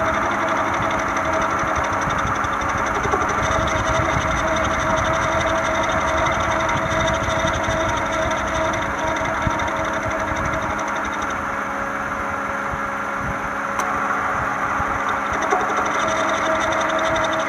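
Toyota Camry four-cylinder engine running, with the drive belt turning on a worn, wobbling crankshaft harmonic balancer. There is a steady whine over a constant rumble, the noise of the balancer's damaged rubber letting the pulley shake.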